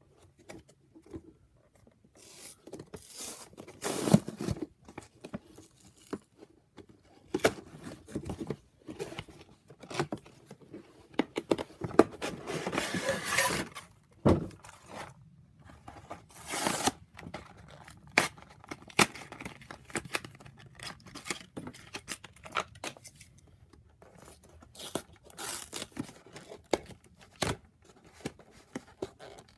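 Cardboard and plastic toy-car packaging being torn and pulled open by hand: irregular ripping, scraping and crinkling with sharp clicks. A longer, louder tear comes about twelve seconds in.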